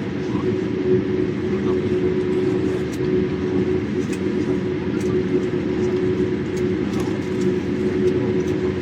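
Cabin noise of a Boeing 787-8 airliner: a steady low rumble of engines and airflow with a constant hum, and light scattered rattles of cabin fittings.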